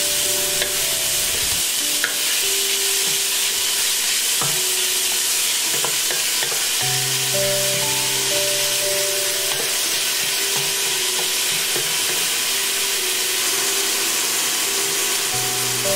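Chopped green onions sizzling as they fry in olive oil in a pot, stirred with a wooden spoon that now and then scrapes the pot. Soft background music with held notes plays underneath.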